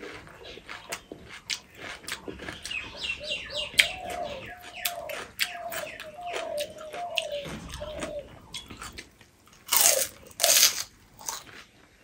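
Crunching and chewing as crisp pani puri shells are bitten and eaten one after another, with many sharp crunches and two louder bursts about ten seconds in. A bird calls repeatedly in the background through the first part.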